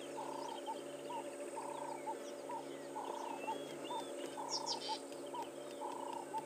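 Birds calling in the bush: one bird repeats a short low whistled note over and over, some notes held longer than others, while other birds chirp and twitter higher up. A faint steady hum runs underneath.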